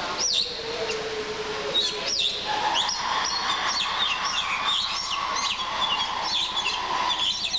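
Birds chirping: a rapid, busy series of short, high tweets that sweep downward, growing denser after the first couple of seconds.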